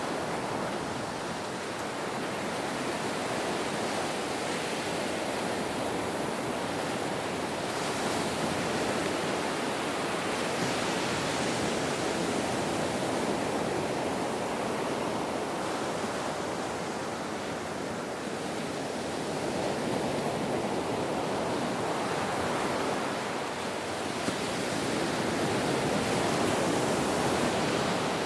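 Ocean surf washing in: a steady rush of waves that swells and eases every several seconds.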